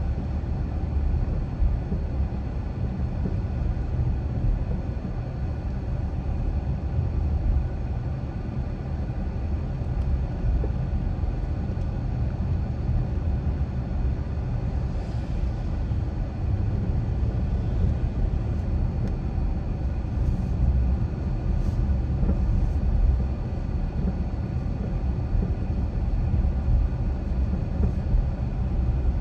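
Car driving at a steady pace: continuous low road and engine rumble from the tyres and drivetrain, with no sharp changes.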